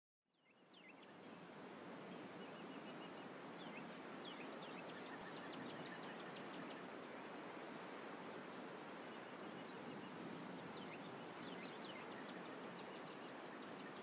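Faint outdoor ambience that fades in to a steady hiss, with small birds chirping in short clusters several times.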